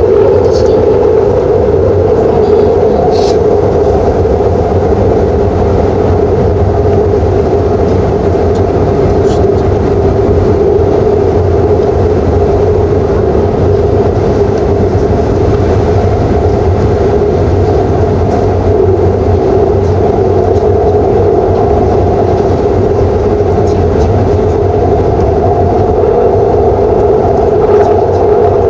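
Shinbundang Line train running at steady speed through the tunnel: a loud, even rumble of wheels on rail with a constant droning hum, and a few faint high ticks.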